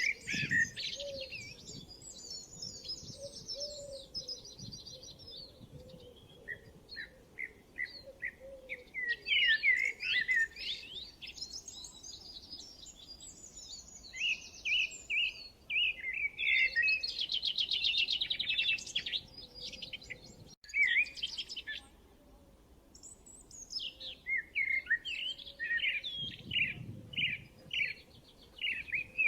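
Several songbirds singing and chirping: bursts of quick chirps, rapid trills and sweeping notes, with short lulls between phrases.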